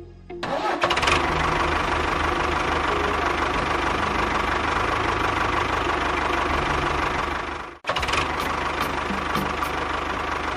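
A small engine running steadily with a low, even pulsing beat. It starts about half a second in, cuts off for an instant about eight seconds in, and comes straight back.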